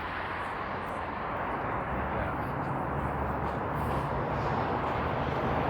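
Steady city traffic noise with a vehicle engine's low hum that comes in about two seconds in and slowly grows louder.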